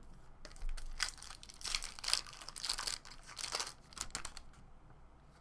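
Plastic wrapper of a trading-card pack crinkling and tearing as it is ripped open and crumpled, a dense run of crackles that dies down near the end.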